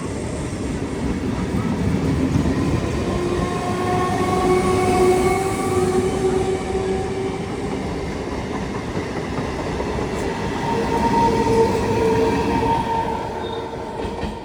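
Electric multiple unit (EMU) suburban train passing at speed: a continuous rolling rumble of wheels on rail with clickety-clack, with several steady whining tones held over it, fading near the end.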